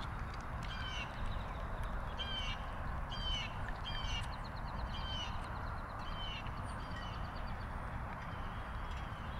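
Birds calling outdoors: short harsh calls repeated roughly once a second, with a fast rattling trill for about two seconds in the middle, over a steady low rumble.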